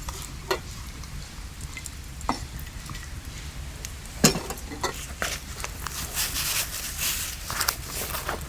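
Camp cooking sounds: scattered clicks and knocks of utensils against cookware, one louder knock about four seconds in, with sizzling and crackling getting denser in the second half.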